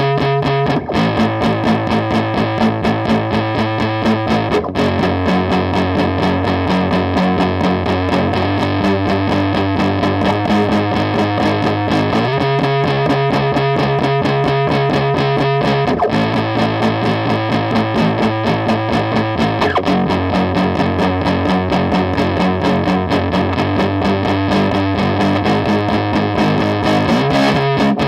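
Electric guitar through a distortion pedal, strummed chords played in a steady rhythm. The chord changes about every four seconds.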